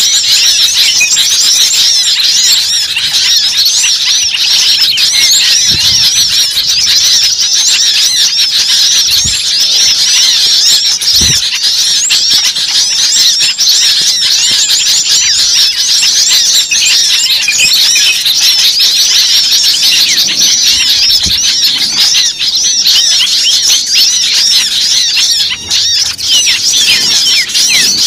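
Dense, noisy chorus of many small birds chirping and squeaking in quick, overlapping high-pitched calls, a bird-lure (pikat) recording played to draw small birds in.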